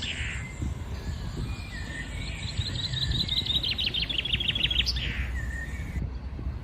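A songbird singing a fast trill of about ten repeated high notes a second, lasting about two and a half seconds and ending in a quick flourish, with softer calls in between. Under it runs a steady low background rumble.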